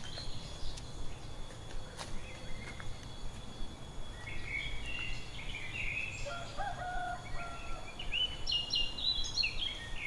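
Birds calling: a run of short, repeated chirping notes starting about four seconds in, over a steady low outdoor rumble.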